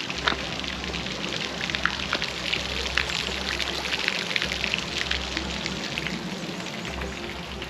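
Water splashing and trickling steadily, with many small irregular drips and splashes.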